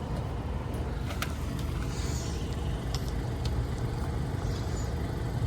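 Air-conditioner condensing unit running: a steady low hum from the compressor under the whoosh of its four-blade condenser fan, with a couple of faint clicks.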